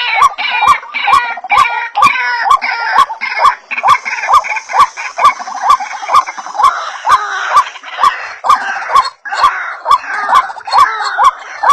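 White-breasted waterhens (ruak-ruak) calling in a chorus, a fast repeated note about two to three times a second with other birds' calls overlapping.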